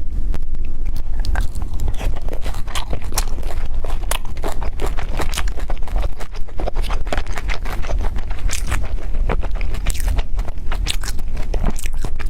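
Close-miked eating sounds: wet chewing and mouth smacks, mixed with the clicks and scrapes of a utensil on a dish, coming thick and irregular over a low steady hum.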